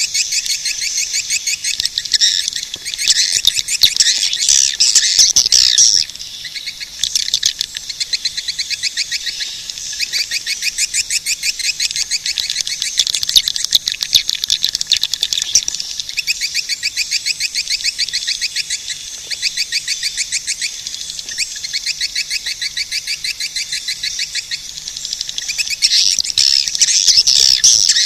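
Swiftlets twittering: dense, rapid trains of high chirps with no pause, louder in the first few seconds and again near the end.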